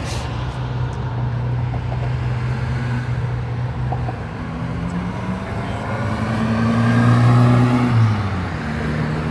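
Car engines running at low speed; one engine's note rises and grows louder from about five seconds in, peaks around seven to eight seconds, then drops back.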